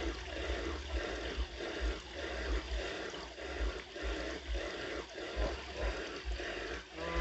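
Steady trickling, running water, with irregular low rumbles underneath.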